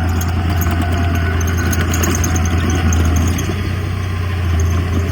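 Heavy diesel engine of earthmoving machinery, a bulldozer or dump truck, running steadily with a deep drone and light rattling.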